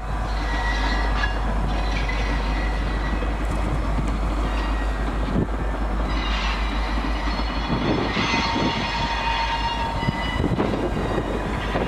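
Norfolk Southern rail train rolling along the track, steel wheels rumbling steadily, with intermittent thin high-pitched squeals coming and going.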